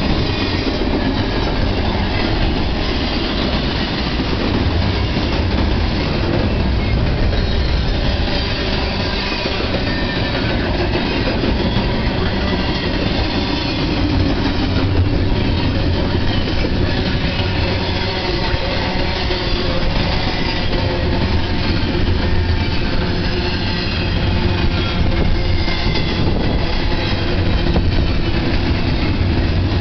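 Double-stack intermodal freight train's loaded well cars rolling past at close range: a loud, steady rumble of steel wheels on the rails.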